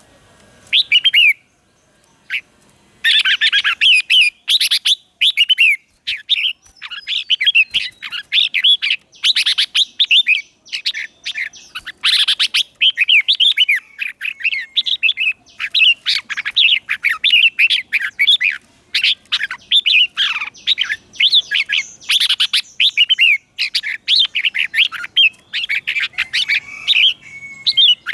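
Red-whiskered bulbul singing: a quick run of short, bright, gliding chirps and warbled phrases, one brief phrase about a second in, then nearly continuous song from about three seconds in.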